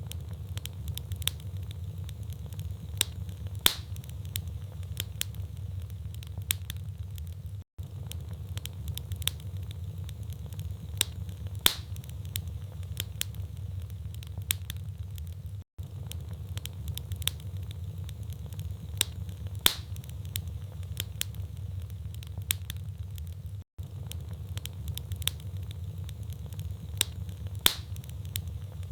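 Wood fire in a fireplace crackling: a steady low rumble of flames with irregular sharp pops and snaps of burning logs, a few of them loud. The sound cuts out for an instant about every eight seconds.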